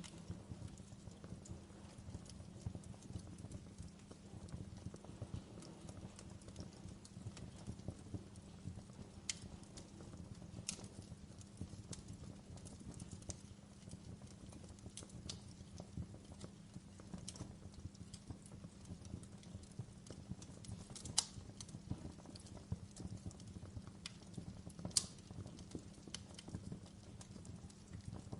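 Fireplace fire crackling: a steady low rumble of flames with many scattered sharp pops, the loudest two about 21 and 25 seconds in.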